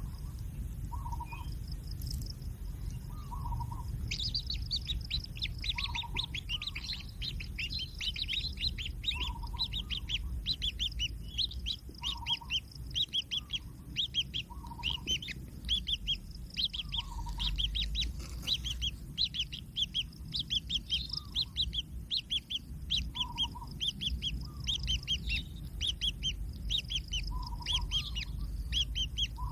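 Kingfisher chicks chirping rapidly in quick high trains, starting about four seconds in, with a lower call repeating every second or two behind them and a low rumble underneath.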